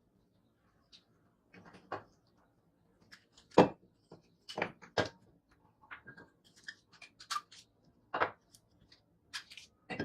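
Irregular clicks and knocks of hand tools and small metal parts being handled, with the loudest knock about three and a half seconds in.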